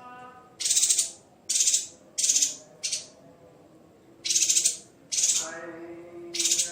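Yuhina giving about seven short, buzzy, rattling calls in quick irregular succession over background music with sustained notes.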